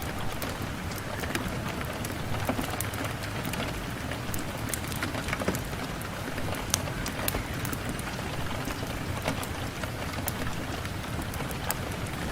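Steady rain on a window pane, a constant hiss with many scattered sharp drop ticks.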